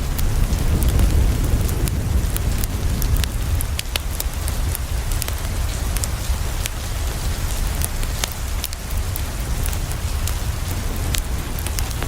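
Steady rain falling on a window, with a deep low rumble underneath and scattered sharp crackles of a wood fire throughout.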